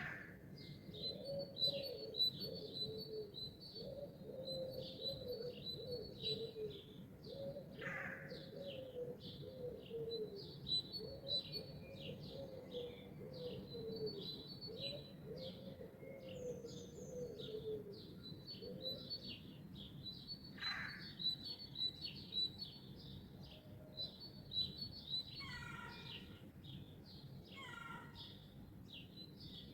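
Morning chorus of songbirds: many rapid, high chirps and trills overlapping continuously. For the first two-thirds a lower, repeated wavering call runs beneath them, and two louder, lower calls come near the end.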